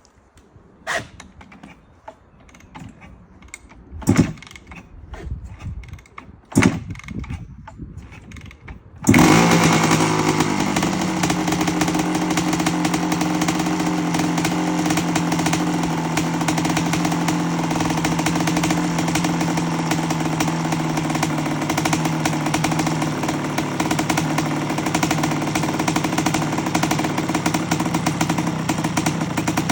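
Three sharp knocks, then a 1984 Honda CR250's single-cylinder two-stroke engine starts suddenly about nine seconds in and runs at a steady idle, being warmed up for a heat cycle.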